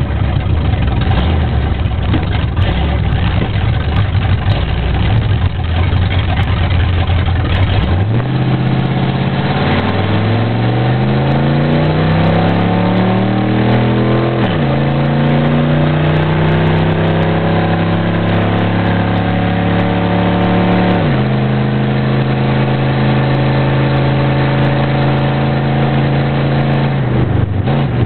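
1977 Ford Maverick's engine under way: a loud, rough rumble for the first several seconds, then its note rising steadily as the car accelerates. The pitch drops sharply twice, about halfway and about three-quarters of the way through, as the transmission shifts up, and then holds steady at cruising speed.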